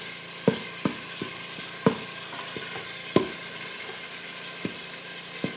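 Ground beef sizzling as it browns in an electric pressure cooker's pot on its browning setting. A utensil stirring the meat knocks and scrapes against the pot at irregular moments, about nine times.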